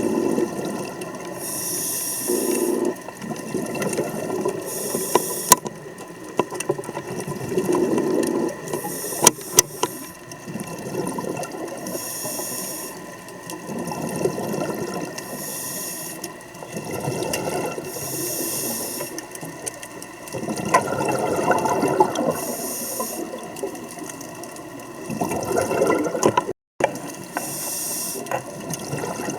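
A scuba diver breathing through a regulator underwater. A short hiss on each inhale comes about every three to four seconds, and a rumbling burble of exhaled bubbles follows each one, with a few sharp clicks in between.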